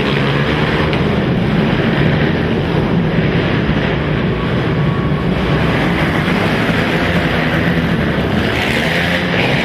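Racing quad (ATV) engines running, a loud steady drone of engine noise with no break.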